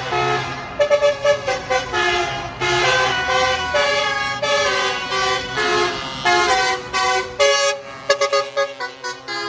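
Truck horns sounding a quick run of changing pitched notes like a tune, with a low engine hum underneath during the first few seconds.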